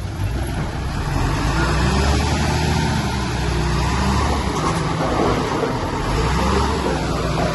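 Diesel engine of heavy earthmoving machinery running with a steady low rumble, which eases briefly a little past the middle and then picks up again.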